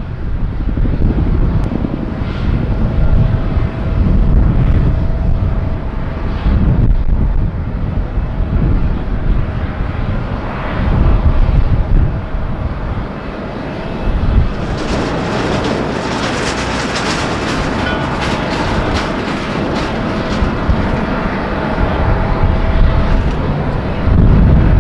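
Jet airliner's engines on approach, a low rumble with a steady whine, swelling about fifteen seconds in into a loud, crackling roar that eases off again over the last few seconds. Wind rumble on the microphone runs underneath.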